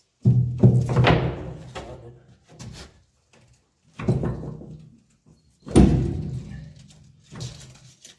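About four heavy metallic thuds a second or more apart, each ringing out briefly, from work on a muck spreader's steel body while its floor chains are being adjusted. Radio music plays underneath.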